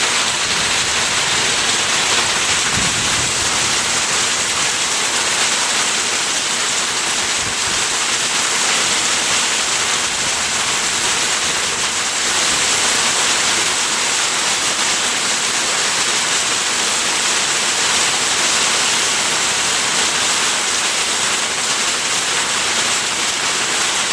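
Heavy thunderstorm rain pouring down hard, a steady, even hiss that does not let up.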